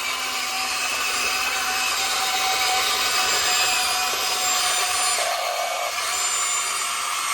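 Model RC excavator's motors and hydraulic pump whirring steadily with a high whine, the tone shifting briefly about five seconds in as the machine works.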